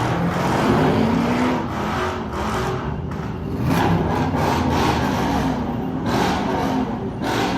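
Car engines revving and running loudly, the engine pitch climbing and dropping with each rev.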